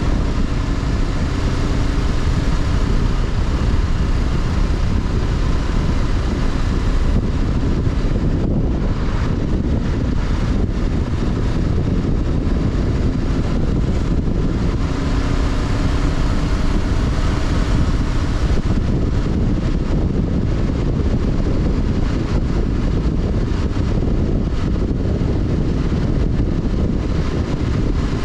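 Honda CB500X's parallel-twin engine running steadily while the motorcycle is ridden, mixed with constant wind and road rush.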